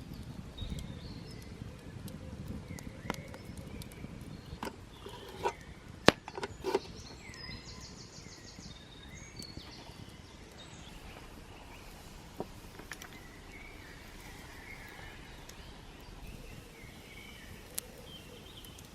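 Woodland ambience with small birds chirping and singing on and off. A few sharp knocks or clicks sound near the middle, the loudest about six seconds in.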